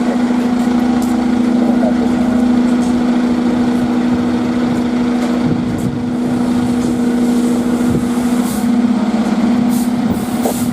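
Fire truck's diesel engine running with a steady, loud drone, with a few short hisses of air near the end.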